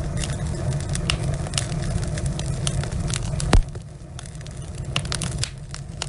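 Wood logs burning in a fireplace, crackling with irregular snaps and pops over a steady low rumble. One loud pop comes about three and a half seconds in, and the rumble drops a little after it.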